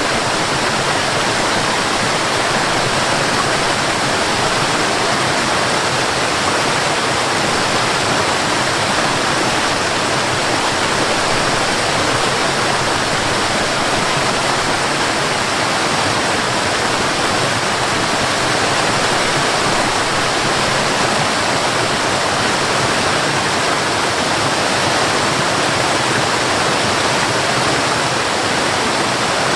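Waterfall: water falling and rushing in a steady, even roar of noise with no change throughout.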